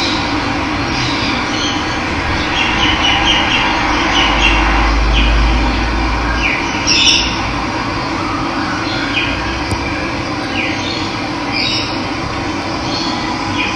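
Steady rush of running water with wild birds chirping over it: short repeated calls and quick downward-sliding notes. A low rumble swells briefly about four seconds in.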